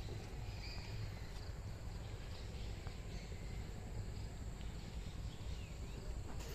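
Small birds chirping faintly here and there, with short rising and falling calls, over a steady low rumble.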